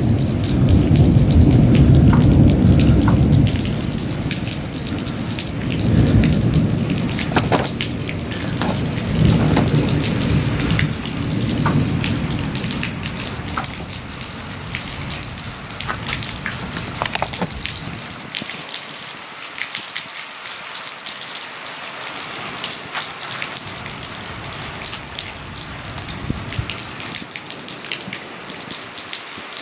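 Steady rain hissing, with drops ticking sharply on a nearby surface. Rolling thunder rumbles in two waves through the first half, then dies away, leaving only the rain.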